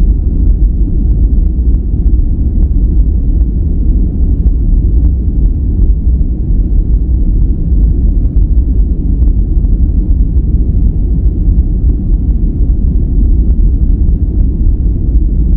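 Steady relaxation noise track billed as white noise, but deep and rumbling, almost all of it low down with little hiss on top. It runs evenly with no changes.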